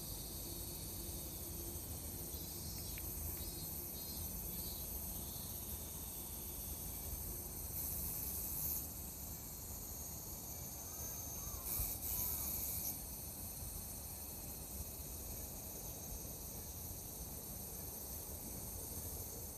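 Summer insects chirping in a steady high chorus over a low background rumble, with a few quick pulsed chirps early and two louder buzzing bursts of about a second each, around a third and two-thirds of the way through.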